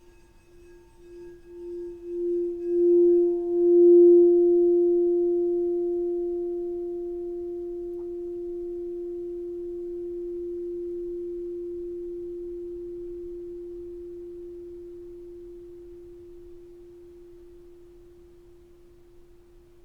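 A singing bowl sung by rubbing its rim: one low tone swells in wavering pulses for about four seconds, then rings on and slowly fades away.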